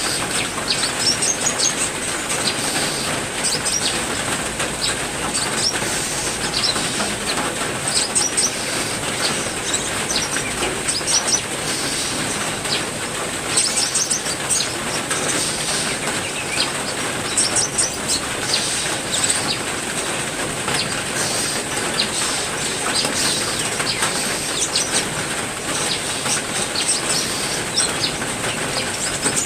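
Steady heavy rain with small songbirds chirping over it in many short, high calls.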